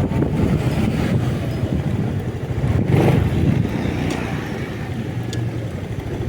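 Motorcycle on the move: engine running steadily under road and wind noise, swelling briefly louder about three seconds in.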